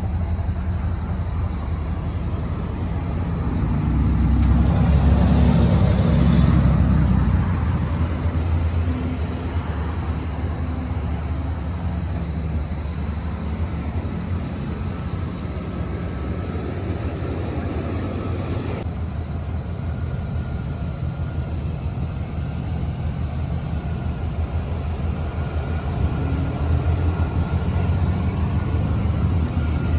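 1992 Cadillac's V8 engine running with a steady low rumble. It grows louder about four seconds in and settles back by about seven seconds.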